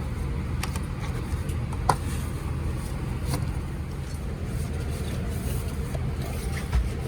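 Steady low hum of an Airbus A319 airliner cabin parked at the gate, with a few light knocks: a sharp one about two seconds in and a duller one near the end.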